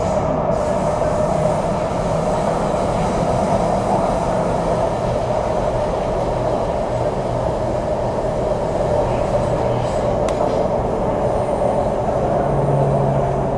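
Interior running noise of an MTR CRRC Changchun EMU motor car (Mitsubishi Electric IGBT-VVVF traction) travelling between stations: a steady rumble of wheels and running gear with a low steady hum underneath. The low hum grows stronger near the end.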